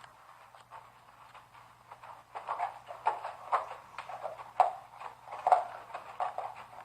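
A dog making a series of short, repeated sounds, about one every half second, starting about two seconds in, heard from a video playing.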